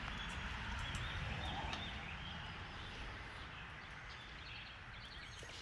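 Steady outdoor background noise, mostly low rumble, slowly fading a little, with a few faint high bird chirps.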